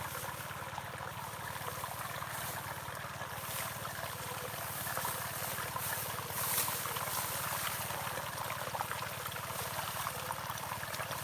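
Open-air ambience of a crop field: a steady hiss with faint scattered clicks and chirps, swelling a little around the middle.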